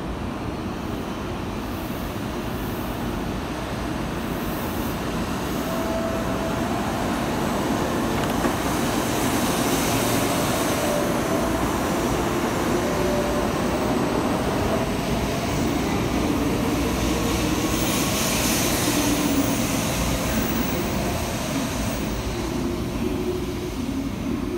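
N700-series Shinkansen train pulling out of the station: a whine from the motors rises slowly as it gathers speed, and the running noise of the passing cars builds to its loudest about halfway through, then eases as the train draws away.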